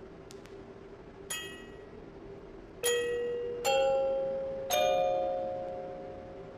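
Music box playing a slow, sad tune: a few plucked notes about a second apart, each ringing out and fading.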